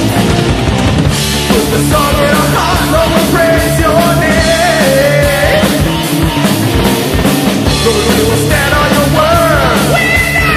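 Loud heavy metal music: a band with drum kit and distorted guitars playing a steady, driving beat, with a melodic line on top that slides and bends in pitch.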